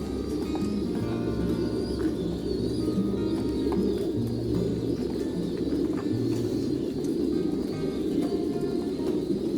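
Many domestic pigeons cooing together in a loft, a dense continuous murmur of overlapping coos, with background music of held notes over it.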